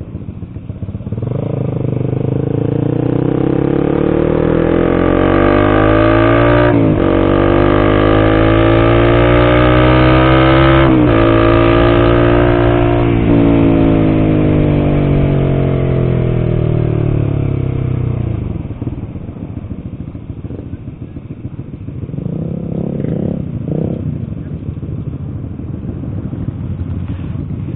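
Honda CBR150R single-cylinder motorcycle engine accelerating on the road, its note rising steadily with two brief breaks for gear changes. About thirteen seconds in, the pitch falls away as it slows, and it runs quieter at low speed for the last third.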